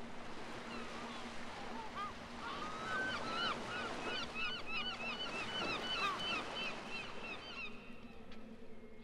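Birds calling in a rapid, overlapping string of short rising-and-falling chirps, starting about a second and a half in and dying away near the end, over a steady hiss.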